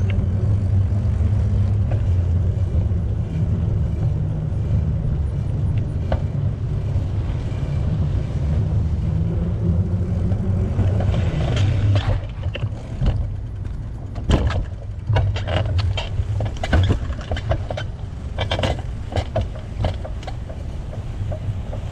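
Low wind rumble on the microphone of a moving bicycle. From about halfway through, a run of sharp clicks and knocks comes through, irregular and spread over the rest of the stretch.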